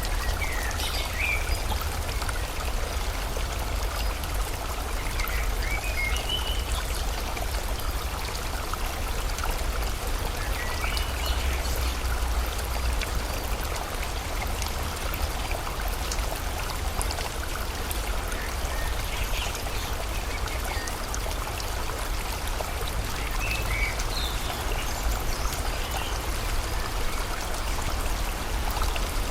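Steady rushing water of a stream, with short bird chirps recurring every few seconds.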